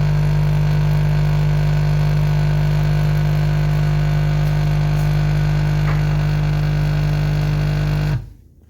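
Capsule coffee machine's pump running as it brews a cup, a loud steady buzzing hum that cuts off suddenly near the end when the brew finishes.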